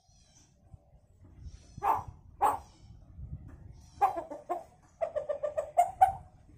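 Hill myna mimicking chicken calls: two loud single calls, then a few short notes, then a quick run of about ten rapid repeated notes.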